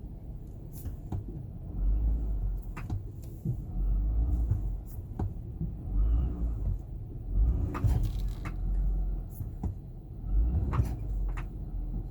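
Low vehicle rumble that swells and fades in bursts every second or two, with a few sharp clicks, heard from inside a vehicle.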